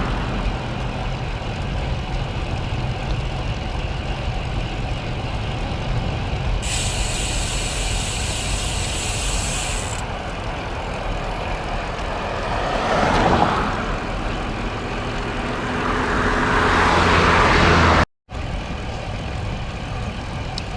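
Steady wind and road noise while riding a bicycle on a road, with a high hiss for about three seconds. Vehicles pass, one about 13 seconds in and a louder one swelling near the end, which breaks off suddenly.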